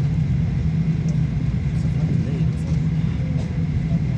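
Steady low rumble and hum of a Boeing 737-800's cabin air-conditioning on the ground before departure, with a faint murmur of passengers' voices.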